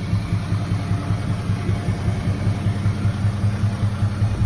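1967 Dodge D100's 225 cubic-inch slant-six engine idling steadily, with an even low pulse.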